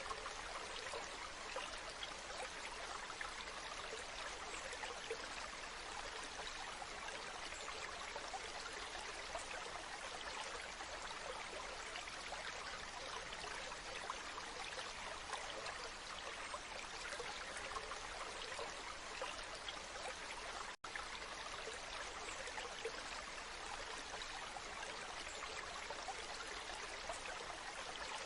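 Waterfall: steady rushing, splashing water, with a split-second break in the sound about twenty seconds in.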